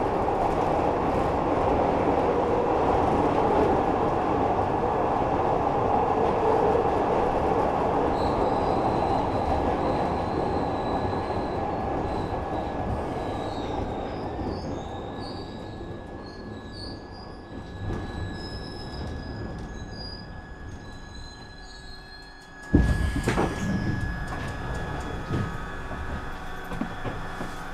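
Glasgow Subway train running through the tunnel, its rumble fading as it slows, with flickering high-pitched wheel squeal and a steady whine coming in. About five seconds before the end there is a sudden loud clunk, then a quieter hum.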